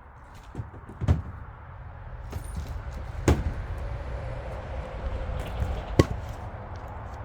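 A heavy axe striking black locust firewood as it is split: three sharp blows about two to three seconds apart, with a lighter knock just before the first. A low steady rumble runs underneath.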